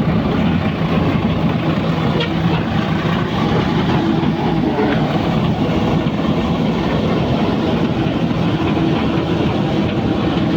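Heavy diesel engine running steadily and loudly, with a constant low hum under dense mechanical noise.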